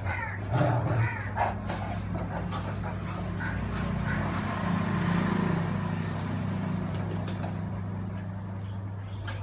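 Dogs, a Great Dane and a beagle, play-fighting: a few loud, harsh barks or yelps about half a second to a second and a half in, then lower growling through the middle of the scuffle.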